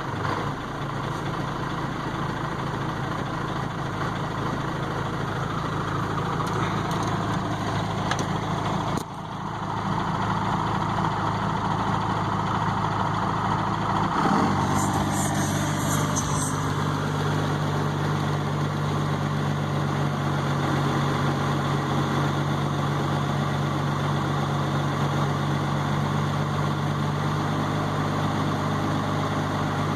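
12-valve Cummins inline-six diesel idling steadily while still cold from the start, its sound changing briefly about halfway through.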